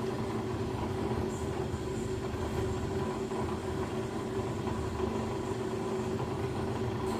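Beko WS832425S washing machine's drum turning and its motor whining at a steady pitch over a constant rumble, as it works to balance its load before the intermediate spin. It has been having trouble spinning, probably because of a towel unbalancing the load.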